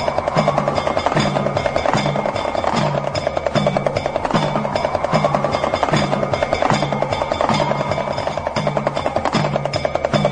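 Music built on the rapid, even rattle of a damru (Shiva's hourglass pellet drum), with a low tone pulsing about every 0.8 seconds and a higher tone that slowly slides up and down.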